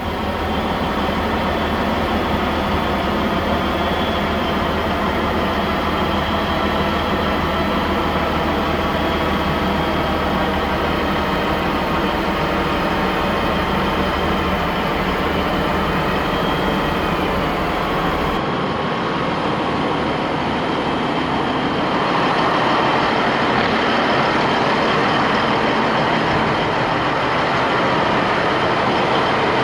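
Heavy truck's diesel engine running steadily, with no speech. About two-thirds of the way through the sound changes abruptly, the deep hum dropping away and a brighter, noisier running sound taking over.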